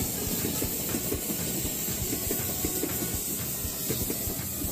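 Electric commuter train running along the track, a steady low rumble with many small knocks and a hiss over it.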